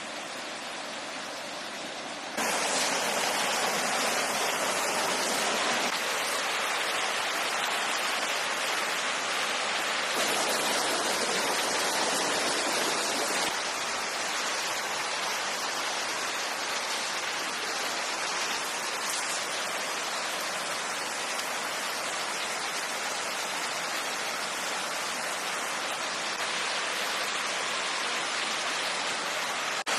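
Steady rain falling, an even hiss that gets louder about two seconds in and shifts slightly in level several times after.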